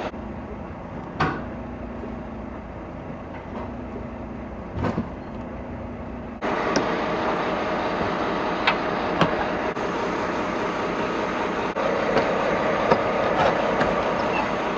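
Semi truck idling, a steady mechanical noise with a few sharp clicks and knocks; about six seconds in it suddenly gets louder.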